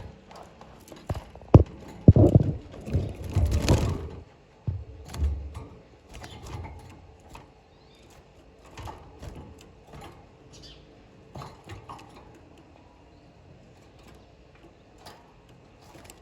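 Irregular knocks and taps, loudest and thickest in the first four seconds, then thinning to scattered light clicks.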